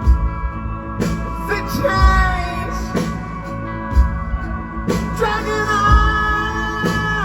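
Live rock band performance: drums beating steadily under guitars and keys, with a singer holding a long note in the second half that slides down at the end.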